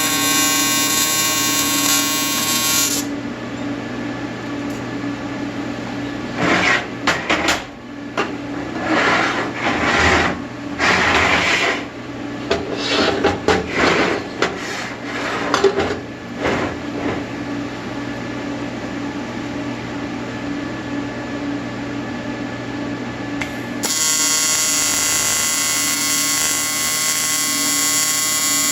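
Welding arc buzzing steadily for the first few seconds and again near the end, a rich electric buzz. In between it stops, and a run of short, irregular scraping and whirring bursts comes about midway.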